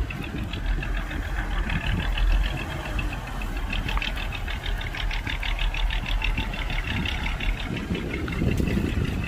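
Heavy diesel machinery engine running with a deep, steady rumble, and a fast, even clatter joining in from about four seconds in.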